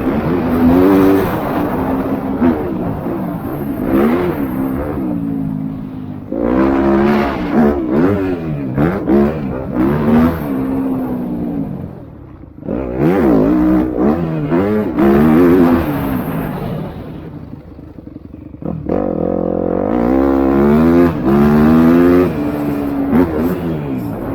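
MX2 motocross bikes racing, their engines revving up and down as the riders accelerate, shift and back off, one after another. Twice the engine sound falls away briefly before climbing again as more bikes come through.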